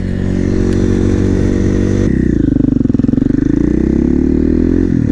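KTM 450 supermoto's single-cylinder four-stroke engine running on the move, holding steady revs, then dropping off about two seconds in and building back up near the end.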